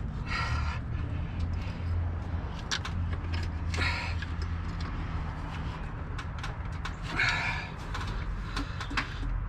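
Clicks, knocks and rubbing as a rubber hose is forced onto a fitting on the engine, with a few short scraping patches, over a steady low hum.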